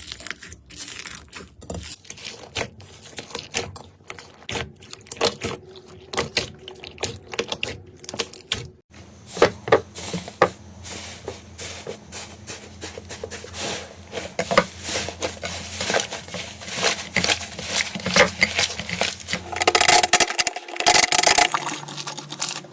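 Slime being squeezed, poked and pulled by hand: a dense, irregular run of sticky clicks, pops and crackles. A brief break about nine seconds in, after which the clicking goes on over a faint steady hum.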